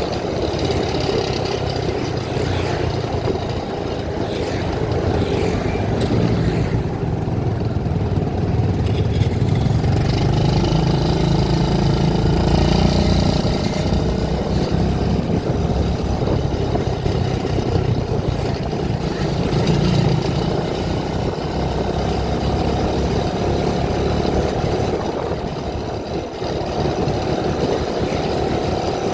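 A vehicle engine running steadily, a little louder for a while in the middle.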